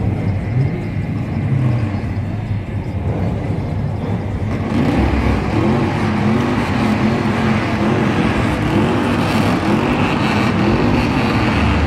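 Car engine running, revved up and down over and over from about five seconds in.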